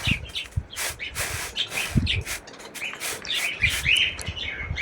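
Budgerigars chirping, with louder chirps near the end, over repeated scraping strokes at about two a second.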